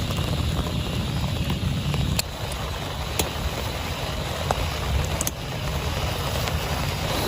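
Heavy rain falling steadily, with a low rumble of distant thunder underneath and a few sharp clicks of single drops.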